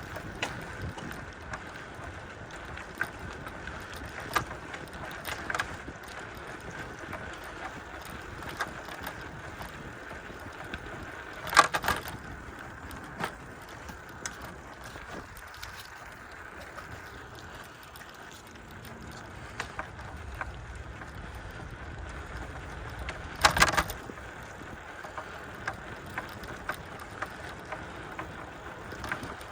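Bicycle rolling along a trail: steady tyre and wind noise with scattered small clicks from the bike, and two loud rattles as it jolts over bumps, about twelve seconds in and again about twenty-four seconds in.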